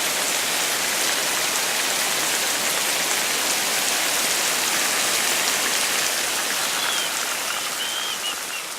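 Steady hiss of heavy rain, fading out near the end.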